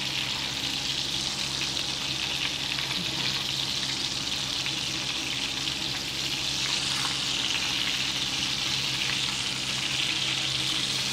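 Oil sizzling steadily as minced-chicken kababs shallow-fry in a frying pan.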